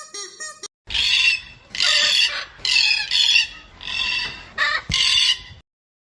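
Harsh, squawking animal calls, six in a row about a second apart. They follow a short run of regular, higher pitched calls that cuts off under a second in.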